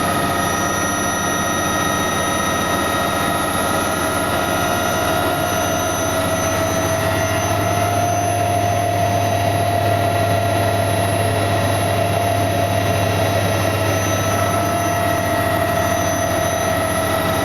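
Helicopter turbine and rotor running steadily: a whine over a low hum, the whine edging up in pitch partway through.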